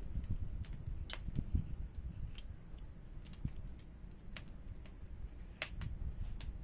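Wood fire crackling: irregular sharp pops and snaps, two stronger ones about a second in and toward the end, over a low steady rumble of the flames.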